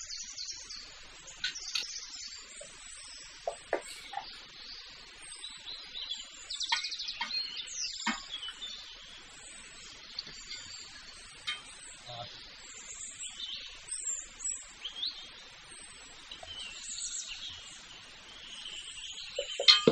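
Birds chirping in the background, with scattered clinks and scrapes of a metal bowl against an aluminium cooking pot as chicken pieces are tipped and scraped into it, and a sharp knock near the end.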